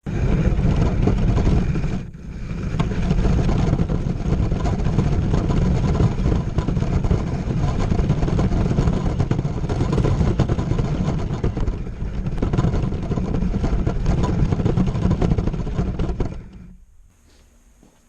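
Radio-controlled monster truck running, a loud, rough rumble with no steady pitch. It dips briefly about two seconds in and falls away about seventeen seconds in.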